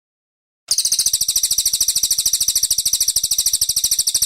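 Brown cililin songbird singing a rapid, high-pitched trill of about a dozen even notes a second. It starts abruptly under a second in.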